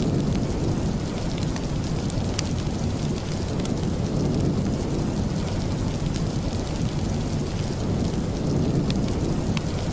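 Steady rain with a deep low rumble under it, and scattered small sharp crackles.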